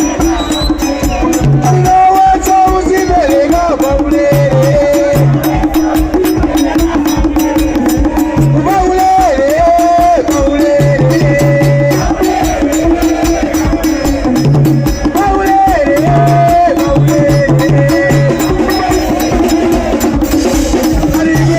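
Live Malawian band music: a held melody line stepping up and down over a steady drone, short repeated bass notes and fast clicking percussion.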